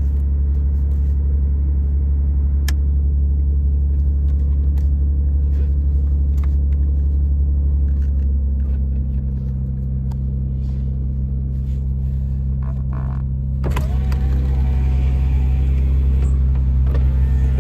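Nissan 300ZX V6 engine idling steadily on its fast cold-start idle while it warms up, its tone shifting slightly about halfway through. Near the end there is a sharp click, after which a wavering higher tone joins the idle.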